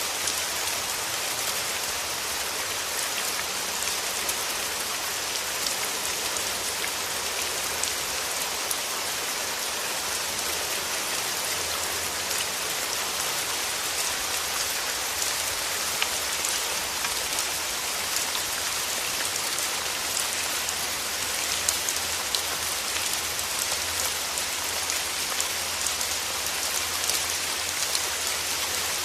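Steady rain falling through forest trees: an even hiss with many small scattered drop ticks.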